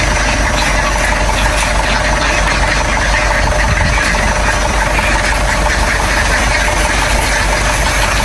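An engine running steadily at a constant speed, with a loud, even rumble throughout.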